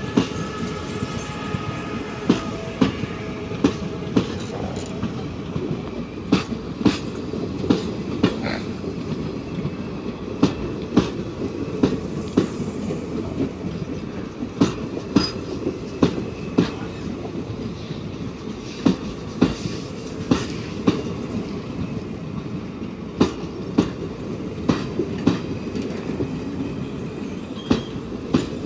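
ICF passenger coaches of an express train rolling past close by, their wheels clacking sharply over rail joints again and again above a steady rolling rumble. A faint wheel squeal sounds in the first few seconds.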